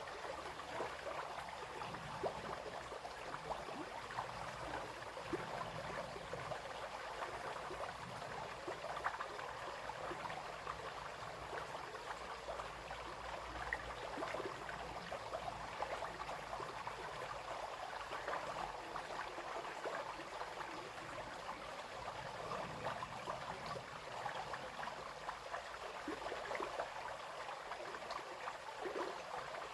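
Small brook running over stones, a steady babble and trickle of flowing water.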